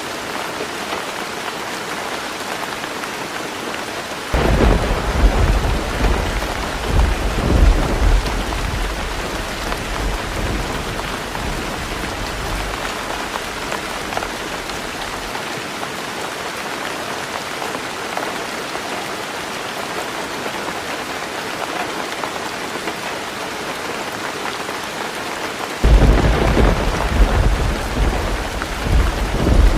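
Heavy rain drumming steadily on a tin roof, with thunder breaking in twice: a sudden low rumble about four seconds in that dies away over some ten seconds, and another near the end.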